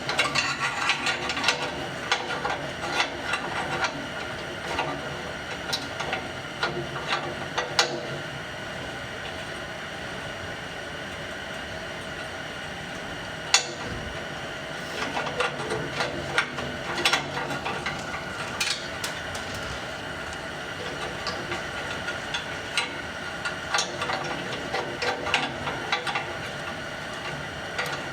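Clinking and knocking of a steel exhaust pipe and its V-band clamps being handled and fitted by hand. The clinks come in irregular clusters, with a single sharp click about halfway through, over a steady faint hum.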